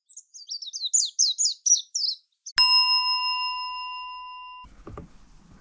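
A quick run of high bird chirps, then a single bell-like chime struck once and ringing with several steady tones. The chime cuts off abruptly about two seconds later, leaving faint outdoor background noise with a few soft low thumps.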